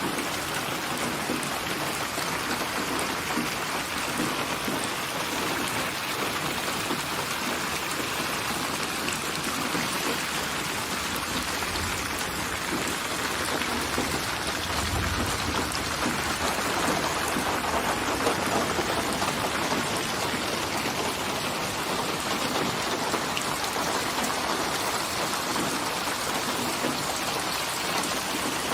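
Steady rain falling, an even hiss of drops, with a brief low rumble near the middle.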